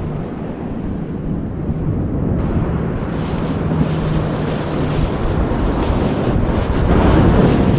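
Wind buffeting the microphone over the wash of surf, with the noise swelling near the end.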